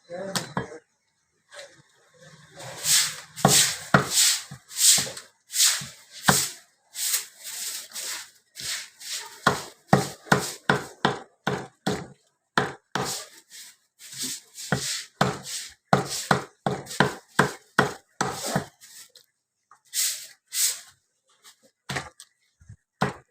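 Chicken being chopped into pieces with a butcher's cleaver on a wooden block: a long series of sharp chopping strikes, settling into about two strokes a second through the middle.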